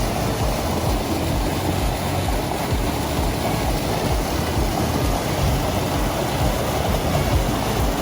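Steady rush of falling water from a waterfall, an even hiss with an uneven low rumble beneath it.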